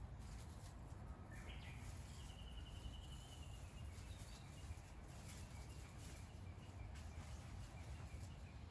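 A bird calling once, a short rising note followed by a rapid high trill lasting about a second, over a low steady outdoor rumble.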